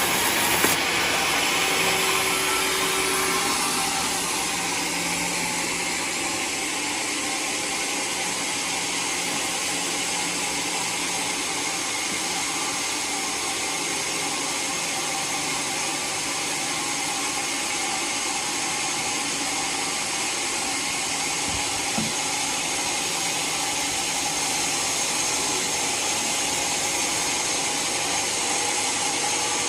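Homemade sawmill's saw cutting through a waru log, running steadily with the hiss of the cut, with one short knock about two-thirds of the way in.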